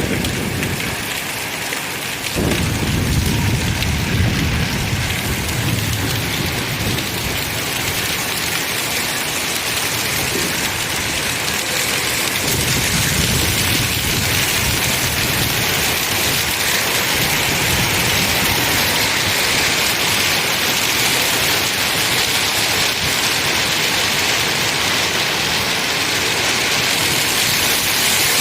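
Heavy rain pouring steadily, with low rumbles of thunder rolling in several times, one coming in suddenly a couple of seconds in.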